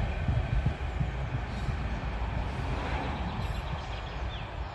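Steam-hauled museum train running away along the track: a low rumble of wheels on rails that fades as the train recedes.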